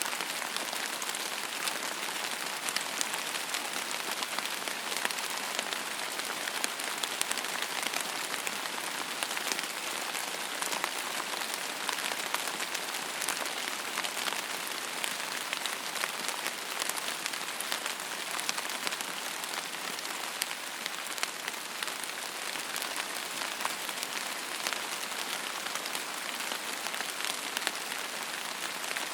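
Steady rain falling on a hard surface: an even hiss with many small drop ticks scattered through it.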